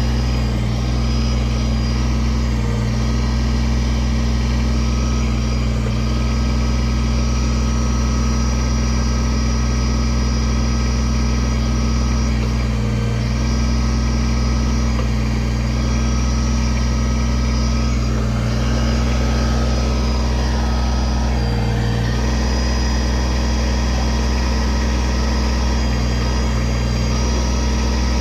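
Kubota tractor's diesel engine running steadily while its backhoe is worked, with a few brief changes in tone as the hydraulics take load, and one dip and rise in pitch about two-thirds of the way through.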